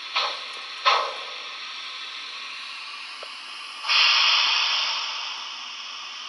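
Steam sound from the DCC sound decoder of a Trix HO model of the class 18 201 steam locomotive, played through its small on-board speaker: a steady background hiss, two short steam blasts in the first second, then a louder, longer steam blow about four seconds in that fades away.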